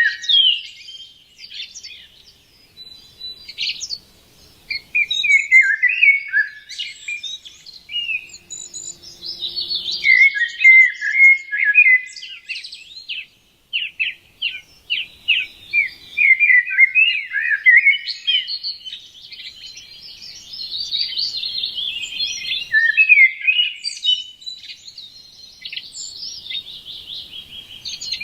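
Small songbirds chirping and twittering, many short, quick calls overlapping, sparser for a few seconds near the start and then busy again.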